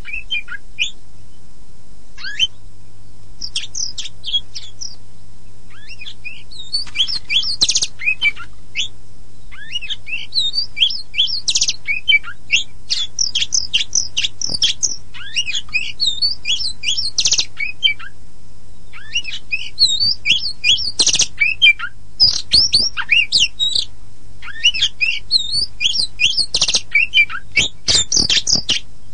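Oriental magpie-robin (the white-bellied 'kacer poci' form) singing a fast, varied song of high chirps, whistles and trills. The song comes in phrases broken by short pauses, over a faint steady low hum.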